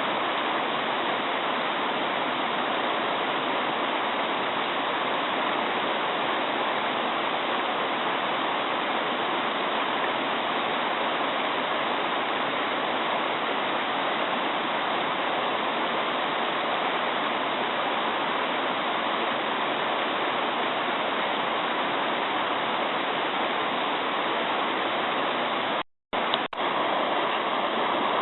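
Mountain stream babbling, a steady, even rush of flowing water. It cuts out for a split second near the end, then carries on.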